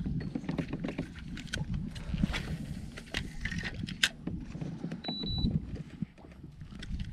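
Scattered knocks, clicks and rustling from handling gear in a kayak, over a low rumble. A short, high steady tone sounds briefly about five seconds in.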